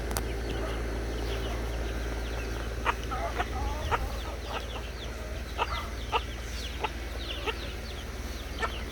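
Backyard chickens clucking and calling, with short calls scattered throughout and coming thickest in the middle and later part.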